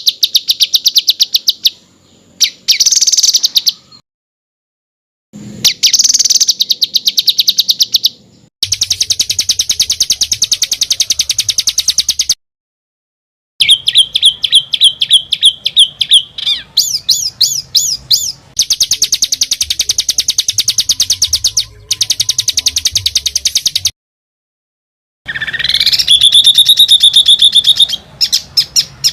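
Songbird masteran (tutor) recording of fast, harsh rattling trills: rapid, evenly repeated high notes in bursts of several seconds. The bursts are cut apart by sudden gaps of complete silence, three times, and change to sweeping whistled notes near the end.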